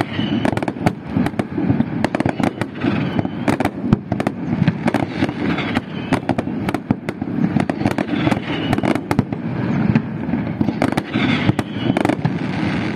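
Fireworks display: a rapid, unbroken barrage of sharp bangs and crackles over a continuous low rumble.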